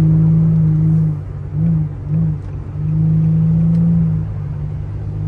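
Nissan G35's VQ35HR V6 exhaust under throttle, held at a steady pitch, broken by two short throttle pulses about two seconds in, then held again before easing off near the end.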